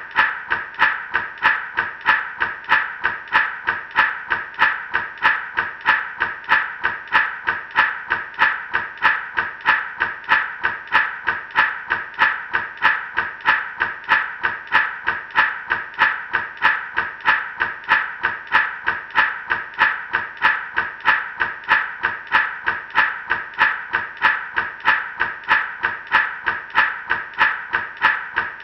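Gourd rattle shaken in a steady, even rhythm, a little over two shakes a second: the seeds inside rattle against the dried gourd shell.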